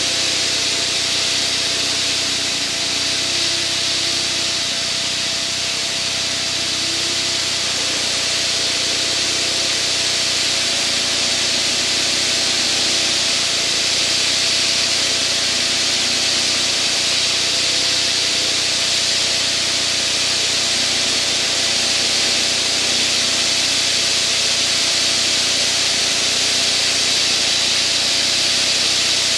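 Steady in-cockpit noise of a propeller aircraft in flight: a constant engine and propeller drone under a loud, even hiss of rushing air.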